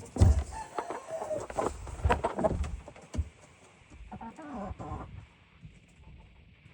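Asil gamefowl clucking with short, bending calls, starting with a loud thump just after the start.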